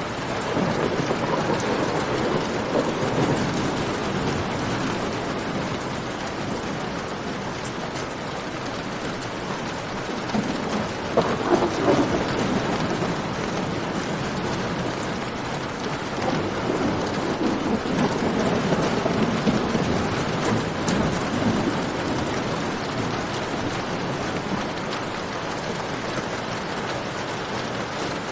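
Steady cave rain hissing, with scattered pops from a crackling campfire. The rain swells deeper and louder three times: near the start, around the middle and again later on.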